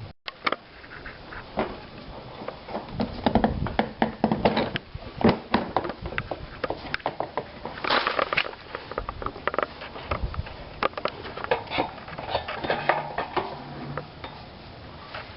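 Irregular clicks, knocks and short scrapes of hand work: tools and parts being handled.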